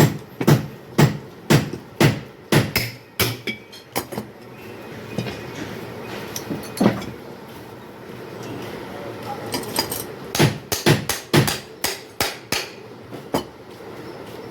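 Repeated hammer strikes, sharp knocks about two a second, about ten in a row, then a lone knock, then a second quicker run of strikes near the end.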